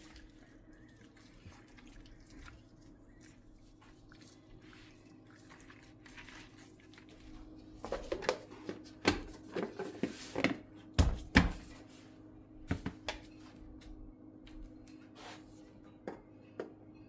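Kitchen handling sounds: a quick run of clicks and knocks, with two heavier thumps a bit past halfway, over a faint steady hum.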